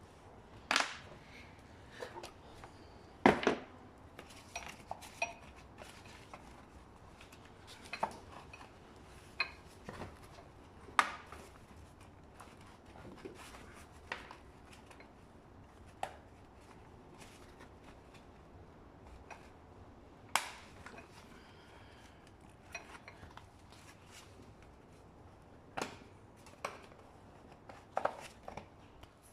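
Scattered metallic clicks, clinks and knocks from hand tools and scooter parts being handled while the engine cover's screws are taken out, with the sharpest knock about three seconds in.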